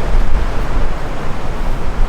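Strong gusty wind buffeting the microphone: a loud rush, heaviest in the low end, that swells and eases.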